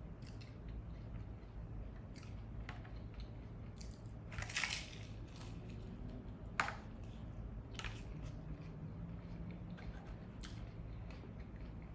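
Close-up crunching and chewing as a fried tortilla chip topped with salad and dressing is bitten into and eaten. The loudest crunching comes about four and a half seconds in, with a single sharp crack shortly after and softer crunches later.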